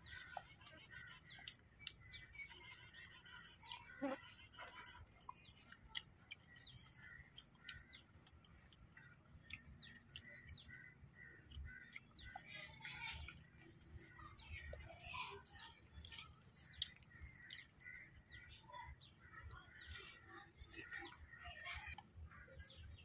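Small birds chirping repeatedly, faint, with scattered soft clicks and smacks of people eating rice and fish curry by hand.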